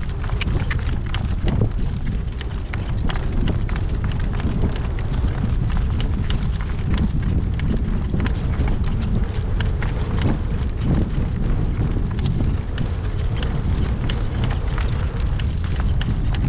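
Harnessed horse trotting, its hooves clip-clopping in a quick irregular patter of sharp knocks, over a steady low rumble of wind buffeting the microphone.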